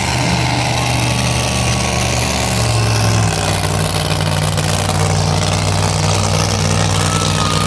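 Monster truck engines running loudly and steadily. Their note shifts about three seconds in.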